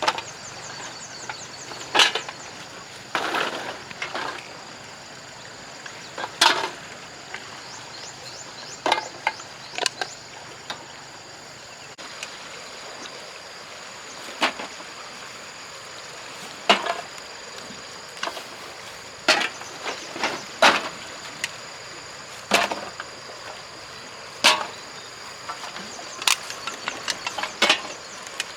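Sharp, irregular knocks and clatters of hard debris being struck or handled, one every one to three seconds, over a steady high-pitched insect drone.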